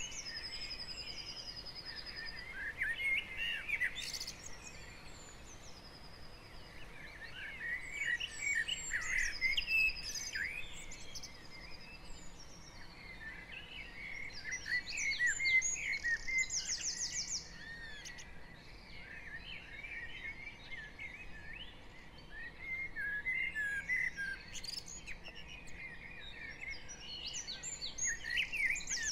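Spring dawn chorus of many garden songbirds singing at once: overlapping warbling and chirping phrases, with high, fast trills breaking in now and then, strongest about a third and again about halfway through.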